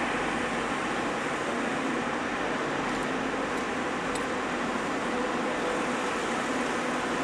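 Steady noise of a car driving slowly on a ferry's car deck, with a few faint clicks about three to four seconds in.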